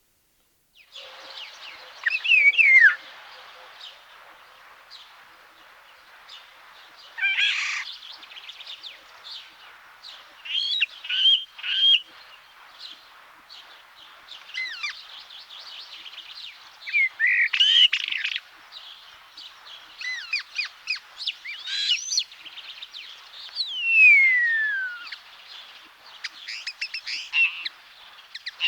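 Common starling singing: a varied run of whistles, chirps and clicking notes, with long falling whistles about two seconds in and again near the end.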